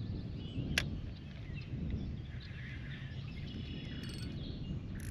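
Birds chirping faintly over a steady low outdoor rumble, with a single sharp click just under a second in.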